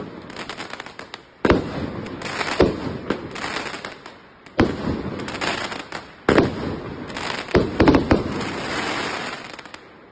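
A 36-shot, 25 mm firework cake firing: sharp shell bursts every second or two, each followed by a dense spread of crackling. Near the end it dies away.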